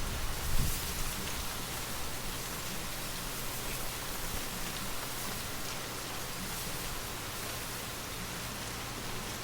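Steady gentle rain, an even hiss of raindrops falling, with a low rumble dying away in the first second.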